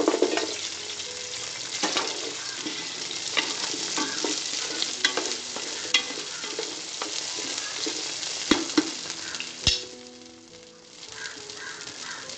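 Sliced shallots frying in hot oil, just tipped into the pan: a steady sizzle with scattered spits and pops. It is loudest at first and eases briefly a little before the end.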